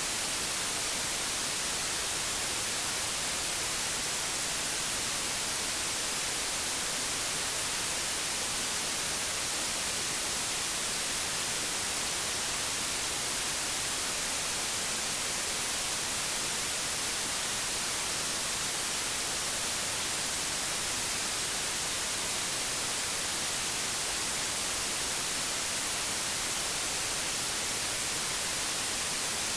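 Analogue television static: a steady, even hiss, strongest in the highs, with no change.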